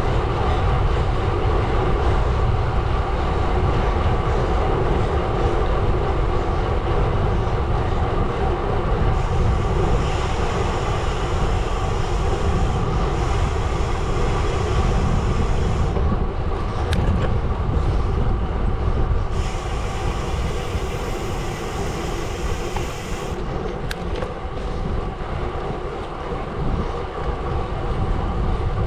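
Gravel bike tyres rolling steadily over a gravel road.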